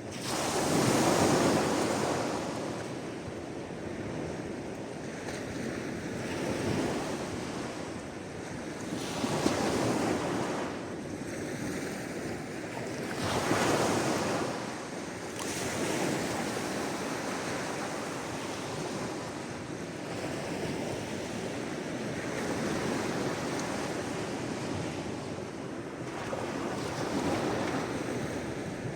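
Sea waves washing in against the shore, a steady surf hiss that swells every few seconds. The largest surge comes about a second in and another near the middle.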